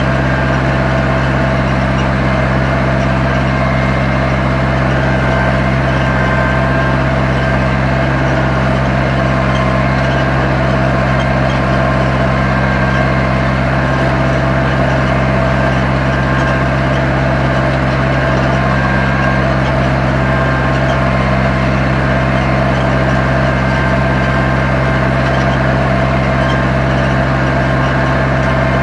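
Zetor 7245 tractor's four-cylinder diesel engine running at a steady, unchanging speed under load while pulling a plough.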